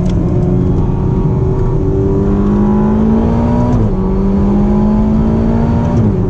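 Ferrari GTC4Lusso T's 3.9-litre twin-turbocharged V8 accelerating hard, heard from inside the cabin. Its note climbs steadily and drops with an upshift about four seconds in, climbs again, and drops with another upshift near the end.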